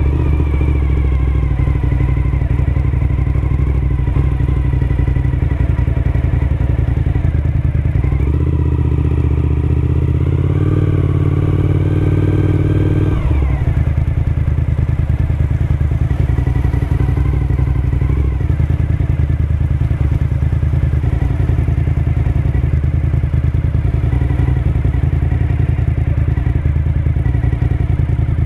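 Suzuki SV1000S V-twin motorcycle engine running under way, its note steady with a couple of shifts in pitch about eight and thirteen seconds in.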